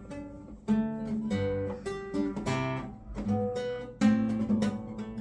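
Acoustic guitar being strummed, with chords struck roughly every half second to second and ringing on between strokes.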